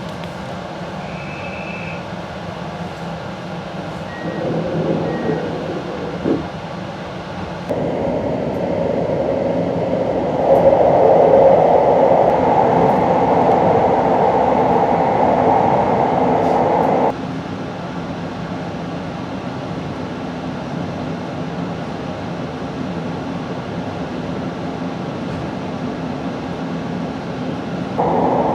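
Running noise of a JR Hokkaido train heard from inside the car: a steady rumble of wheels on rail and car body in motion. It gets suddenly louder about eight seconds in, drops back abruptly around seventeen seconds, and rises again near the end.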